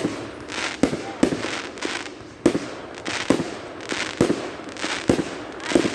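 Fireworks bursting in quick succession, a sharp bang every half-second to a second, each trailing off in a short echo.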